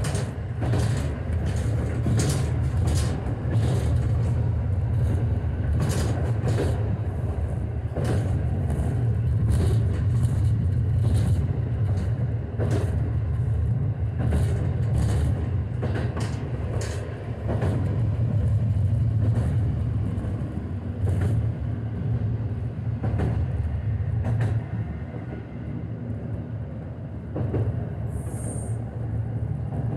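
KiHa 125 diesel railcar running, heard from inside the car: a steady low rumble with the wheels clicking over rail joints. It grows quieter over the last few seconds, and a brief high wheel squeal comes near the end.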